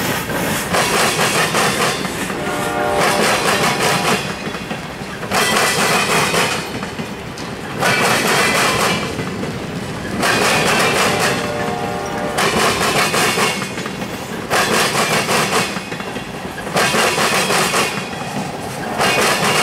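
Freight train's tank cars and hopper cars rolling across a railroad diamond crossing. Steel wheels clatter over the crossing in loud stretches every two seconds or so, with quieter gaps between them.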